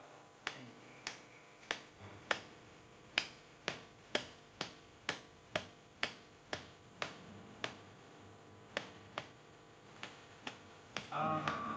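Sharp, evenly spaced clicks or taps, about two a second, with a short pause partway through.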